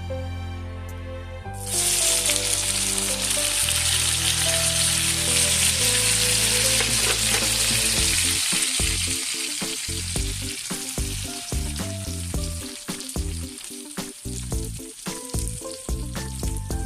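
Food hitting a hot oiled pan and sizzling: the sizzle starts suddenly about a second and a half in, loud at first, then slowly dies down. Soft background music plays underneath.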